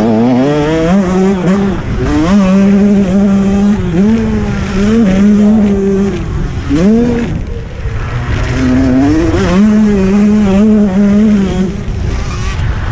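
KTM 125 two-stroke motocross bike engine at full race effort. The revs climb, hold high, then drop again and again as the rider works the throttle and shifts, with a short roll-off and pick-up about seven seconds in.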